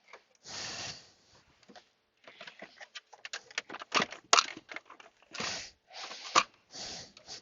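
Plastic center console being worked forward into place: irregular rubbing, rustling and a run of clicks and knocks, with a few sharp snaps loudest near the middle and toward the end.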